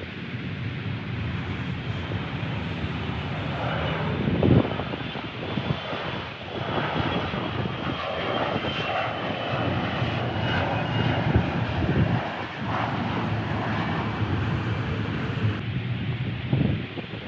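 Jet airliner engines running as the plane flies past on its landing approach, with a faint high whine in the middle. Gusts of wind buffet the microphone.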